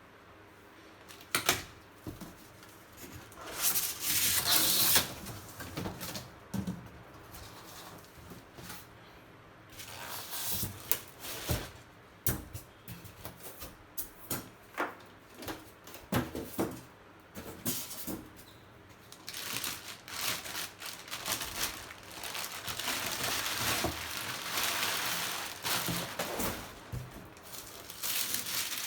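Packaging being handled while a microwave oven is unboxed: irregular rustling of cardboard and plastic wrapping, with scattered knocks and clicks. The rustling is densest in the last third.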